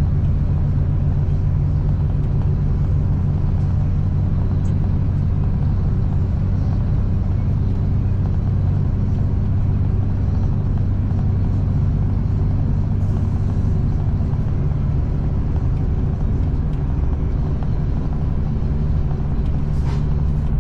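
V/Line passenger train running, heard from inside the carriage: a steady low rumble with a constant deep engine hum.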